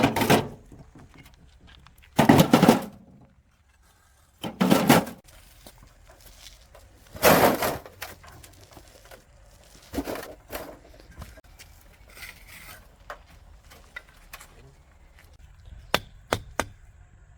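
Four heavy, noisy tool strokes, each about half a second long and roughly two and a half seconds apart, followed by a few lighter knocks near the end.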